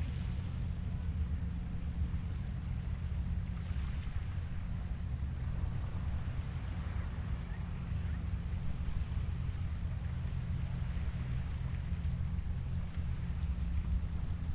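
Small waves washing softly on a beach at low tide, under a steady low rumble of wind on the microphone, with an insect chirping faintly at about three chirps a second.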